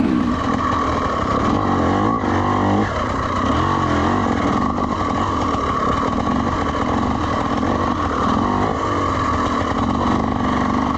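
A two-stroke dirt bike engine runs steadily at moderate revs under the rider, its pitch rising and falling a little with small throttle changes as the bike is ridden cautiously on a slick trail.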